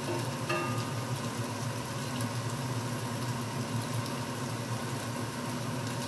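Chicken pieces frying steadily in a hot pan, a constant sizzle over a steady low hum.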